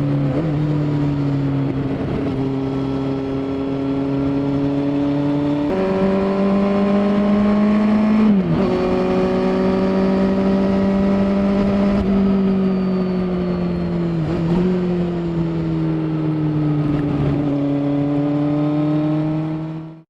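Kawasaki Z800's inline-four engine running through an SC Project oval carbon slip-on exhaust at steady mid revs. The pitch drifts slowly, steps up about six seconds in, and dips briefly twice, around eight and fourteen seconds in; the sound cuts off abruptly at the very end.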